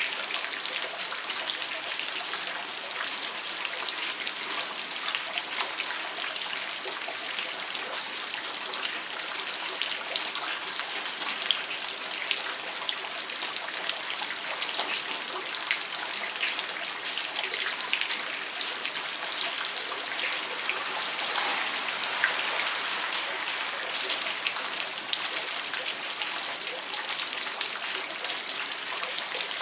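Steady rain falling at night, many close drops pattering on surfaces over a dense hiss of rainfall.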